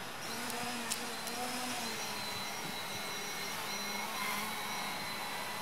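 A 3DR Iris+ quadcopter's four electric motors and propellers running as it lifts off: a steady whirring drone with a thin whine whose pitch wavers slightly.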